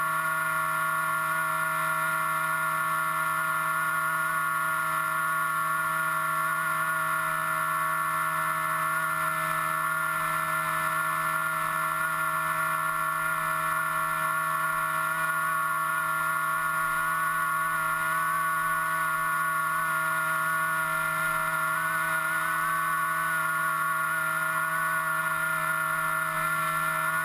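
Electric motor and propeller of an FPV aircraft running steadily under the onboard camera, a constant whine of several stacked tones whose pitch wavers slightly with throttle.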